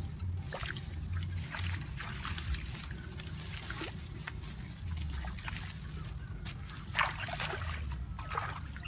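Water sloshing and splashing in short irregular bursts over a steady low rumble, with a louder splash about seven seconds in.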